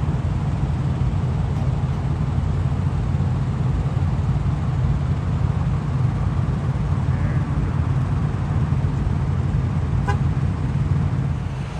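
Steady low rumble of an idling truck engine, with a brief click about ten seconds in.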